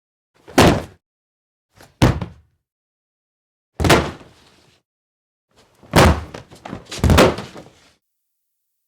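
Fireworks shell bursts from a sound-effects library: five separate booms, each dying away quickly, the last two about a second apart.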